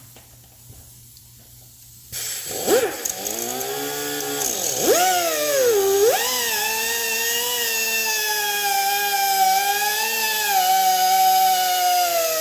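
A rotary grinder starts about two seconds in with a high whine, its pitch dipping and recovering a few times as it bites, then running fairly steadily under load while it cuts a grease slot into a hardened clutch bearing.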